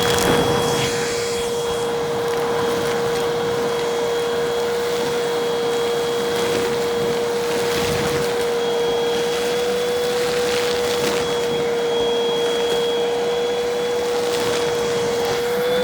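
Vacuum cleaner running with a steady high motor whine, with bits of crunchy debris crackling and rattling up the nozzle now and then.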